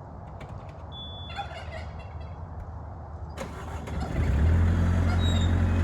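Skid steer engine running low, then speeding up to a much louder steady run about four seconds in, just after a sharp click.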